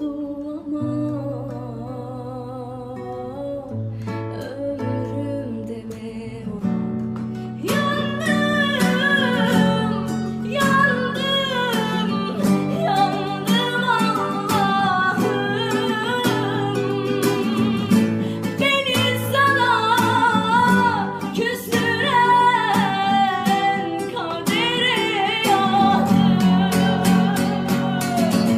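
A girl singing a song to acoustic guitar accompaniment. The guitar plays alone for about the first seven seconds, then the voice comes in and carries the melody over the strummed and plucked chords.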